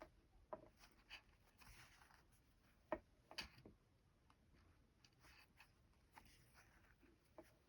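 Faint hand-embroidery sounds: a needle pricking through fabric and thread drawn through with soft scratchy rasps, with scattered small clicks, one sharper about three seconds in.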